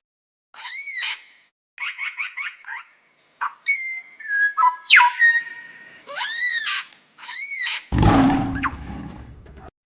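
A string of animal calls: high arched calls that rise and fall, a quick run of about five chirps, whistled notes that jump between steady pitches, then a harsh, noisy call near the end.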